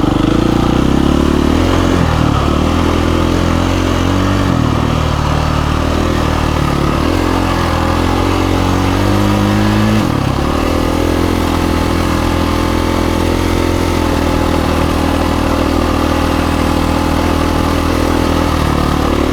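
KTM 350 EXC-F dirt bike's single-cylinder four-stroke engine running under changing throttle while riding a trail. Its pitch rises and falls, with an abrupt change about ten seconds in.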